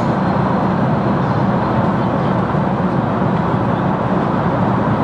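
Airliner cabin noise in flight: the steady, even rush of the jet engines and air streaming past the fuselage, heard from inside the cabin.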